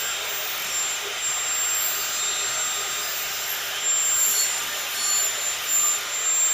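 Angle grinder running steadily against stainless steel exhaust tubing, a high, hissing whine with a sharp steady tone on top. The level swells a little in the second half as the disc bears on the metal.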